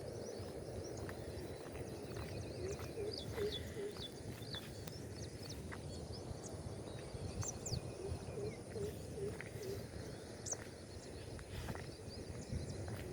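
Outdoor garden ambience: birds chirping in short scattered calls over a steady low background rumble. Small runs of short repeated lower calls come three times, about three seconds in, around eight to nine seconds, and at the very end.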